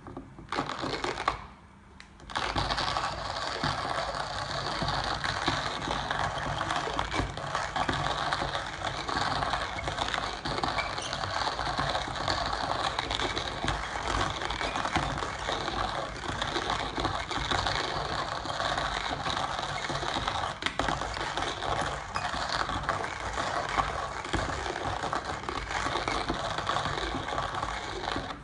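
Manual coffee grinder being cranked: a dense, steady grinding rattle of many fine clicks that starts about two seconds in, after a short burst of handling.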